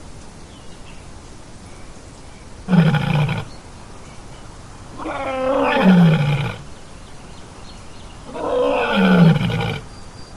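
A big cat roaring three times, each call about a second long with a deep pitch that falls away toward its end.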